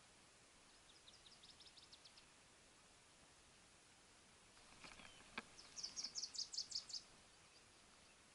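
A small songbird singing a high, rapid trill of evenly repeated notes twice: faintly about a second in, then louder about six seconds in. A few sharp clicks and a short chirp come just before the louder trill, over quiet outdoor background.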